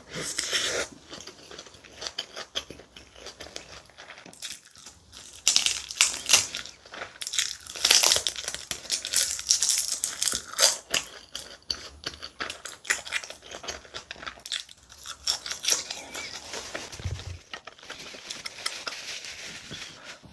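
Close-miked eating sounds: a person chewing spicy kimchi bibimbap wrapped in roasted seaweed (gim), with wet mouth clicks, smacking and crinkly crunches. The crackling is densest and loudest from about five to eleven seconds in.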